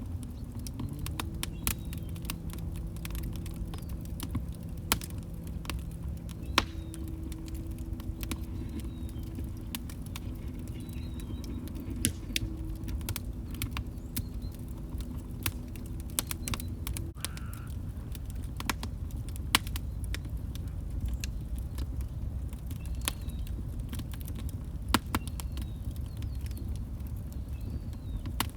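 Wood log fire burning in a fireplace: a low steady rumble with scattered sharp crackles and pops. A faint steady low hum sits under it from about a second in until about 17 seconds.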